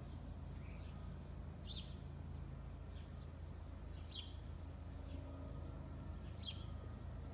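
A bird chirping: short high calls about every two and a half seconds, over a steady low hum.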